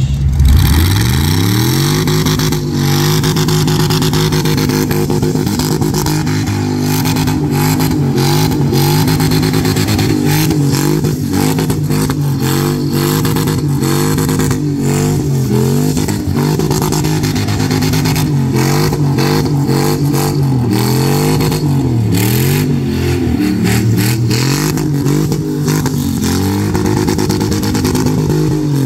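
LS1 V8 in a Toyota Starlet revving hard through a burnout. The engine climbs to high revs in the first second or so and is held there, its pitch dipping and rising again several times as the throttle is worked. The spinning rear tyres add a steady hiss.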